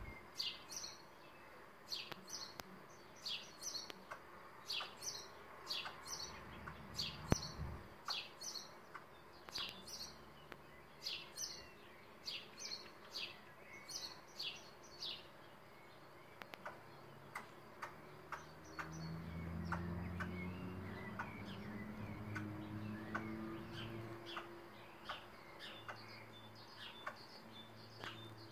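Small birds chirping outdoors, short high chirps repeated over and over, busiest and loudest in the first half. About two-thirds of the way through, a low mechanical hum comes in and rises in pitch in steps.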